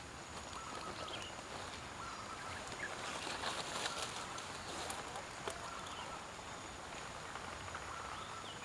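Faint outdoor ambience with short, high bird calls now and then, and a brief patch of crackling rustle in the grass about three to four seconds in.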